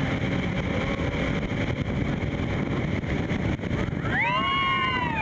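Steady rushing noise of water and wind at the falls, with several people whooping together in a long rising-and-falling call near the end.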